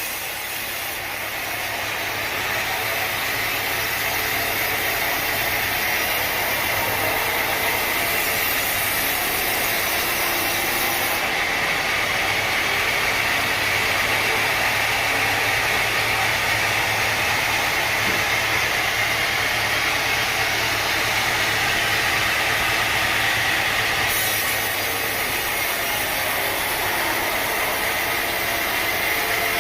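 Sawmill machinery running steadily: a continuous mechanical noise with a high whine and a low hum.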